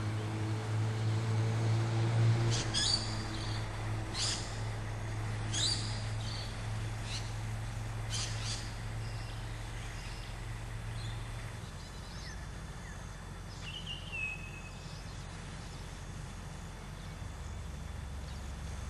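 Birds calling outdoors: a run of short, sharp high calls through the first half and a single short falling whistle about two-thirds of the way in. Beneath them runs a steady low hum that stops partway through.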